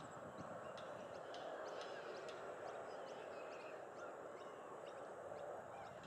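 Short, sharp, high bird chirps at irregular intervals, several close together in places, over a steady faint background hiss.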